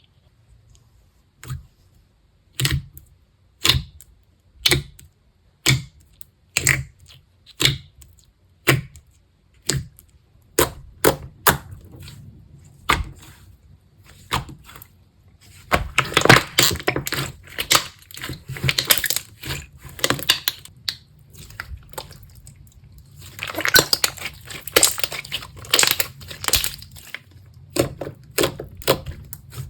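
Slime being pressed and squeezed by hand, giving crisp popping crackles: single sharp pops about once a second at first, then quicker ones. Two longer stretches of dense crackling come in the middle and near the end.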